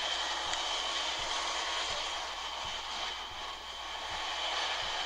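Diesel freight train rolling by: a steady rumbling hiss with faint, evenly spaced clicks of wheels over the rail joints.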